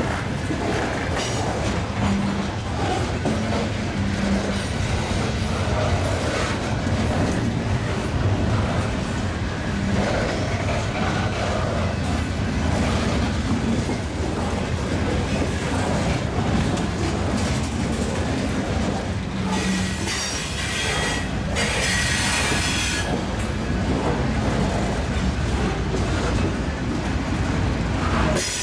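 Covered hopper cars of a freight grain train rolling past: a steady rumble and clatter of steel wheels on rail. About two-thirds of the way through come two short bursts of high-pitched wheel squeal.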